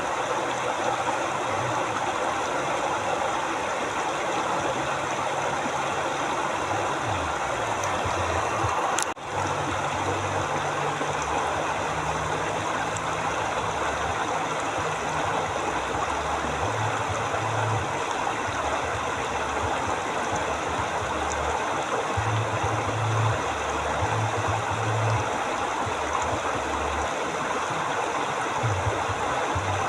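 A river flowing steadily, a constant rush of water, with a low hum underneath that shifts in pitch every few seconds. The sound dips briefly about nine seconds in.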